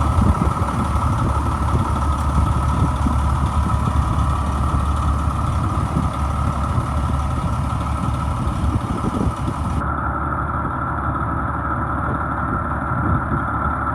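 Detroit Diesel Series 60 engine of a 1998 Pierce Quantum fire truck idling steadily.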